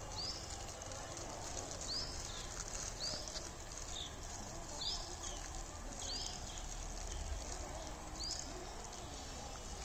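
A bird calling over and over: short, arched high notes, one every second or two, over a low steady background rumble.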